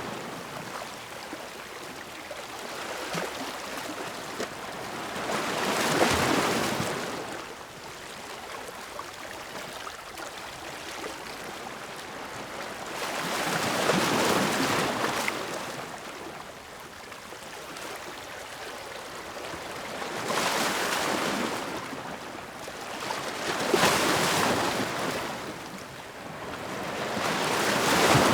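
Ocean waves breaking and washing onto shore, the surf swelling and easing in slow surges every several seconds.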